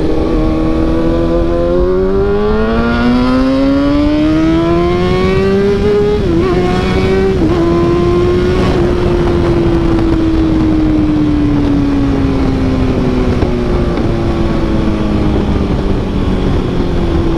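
Kawasaki ZX-6R inline-four at high revs through an SC-Project CRT carbon exhaust: the pitch climbs steadily for about six seconds, dips briefly twice, then slowly falls away.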